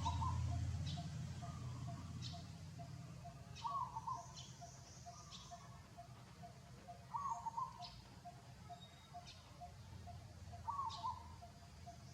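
Animal calls: a short two-note call repeating about every three and a half seconds, with thin high chirps between and a fast, steady pulsing call underneath.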